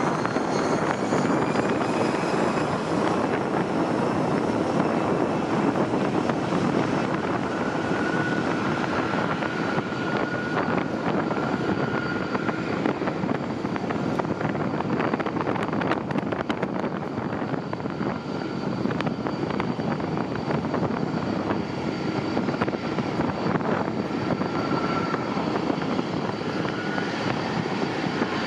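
Jet airliner engines running: a steady rushing noise with thin, high whining tones held above it.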